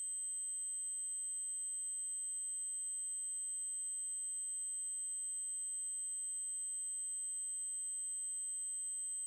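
Synthesized 8192 Hz triangle-wave tone, held steady at one very high pitch.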